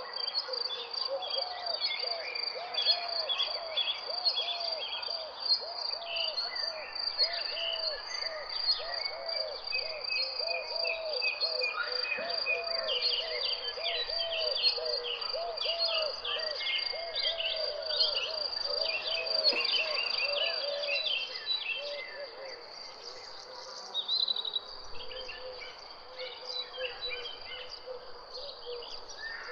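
Birds chirping and calling over a steady, high insect trill, with a fast run of low repeated calls underneath. About two-thirds of the way through, the low calls die away and the chorus thins.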